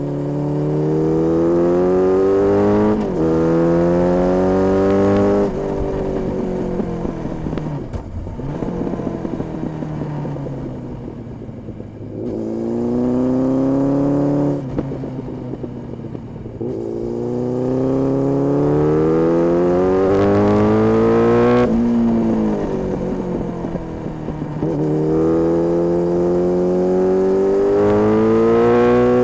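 Honda CB1300S inline-four with an aftermarket Ixrace exhaust accelerating hard through the gears: the revs climb and drop back at each upshift, in several pulls, with the revs sinking slowly as the bike rolls off the throttle between them.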